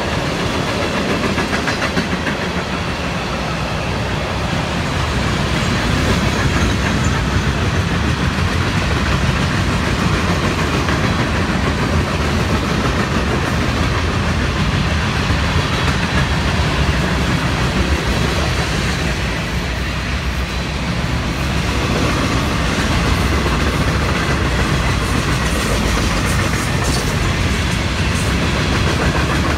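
Florida East Coast Railway freight train's cars rolling past close by: a loud, steady rumble of steel wheels on the rails, with clacking over the rail joints.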